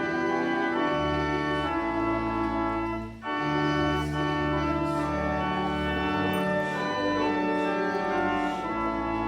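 Church organ playing sustained chords that change every second or two, with a brief break about three seconds in.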